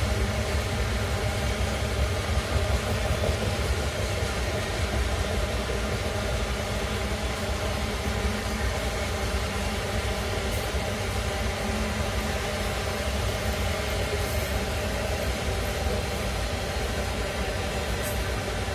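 Heavy iron-ore freight train rolling past, a steady rumble of loaded wagons on the rails.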